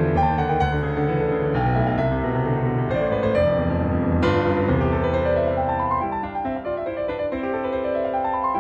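Background piano music, notes struck one after another, with rising runs of notes in the second half.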